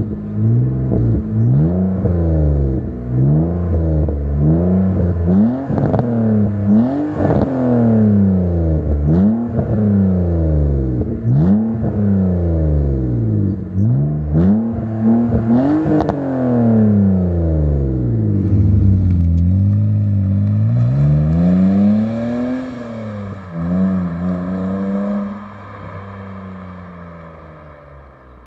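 BMW Z3 3.0's straight-six engine revving through a custom muffler with 76 mm tailpipes: quick throttle blips about once a second, each rising and falling in pitch, with a few sharp pops. After a longer swell the revs slow and the sound falls away over the last few seconds.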